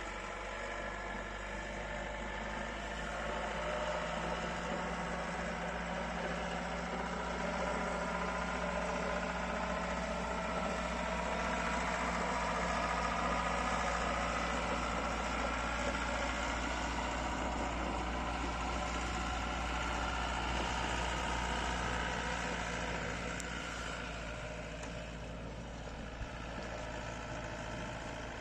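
Lovol tractor's diesel engine running steadily while it drives a front-mounted inverted snowblower. A whine in the machinery slowly rises in pitch, then the sound eases off near the end.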